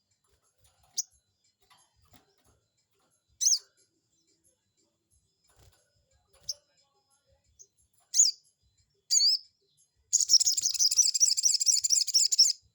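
Sogon bird calling as a lure call: a few separate sharp, high-pitched chirps, then a loud, rapid high warbling trill for about two and a half seconds near the end.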